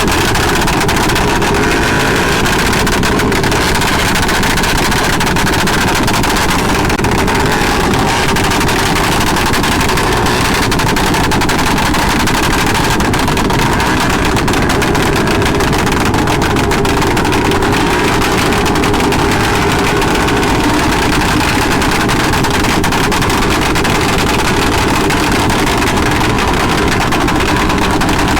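Motorcycle engine running steadily, a loud continuous drone with no let-up.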